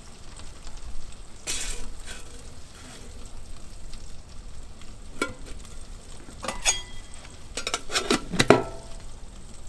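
Bacon sizzling in a pot over campfire coals, with scattered metal clanks and clinks from the cookware and utensils. The loudest is a cluster of ringing clinks near the end.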